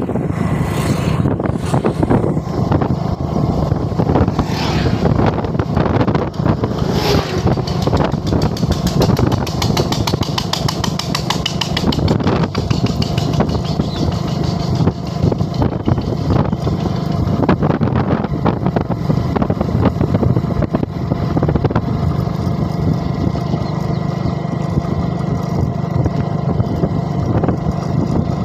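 Motorcycle engine running steadily through a ride.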